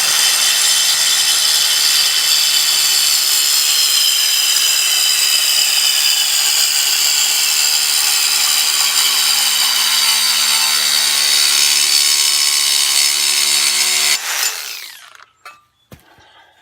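A power cutting tool slicing through steel exhaust pipe, running steadily under load for about fourteen seconds. It then winds down once it is switched off.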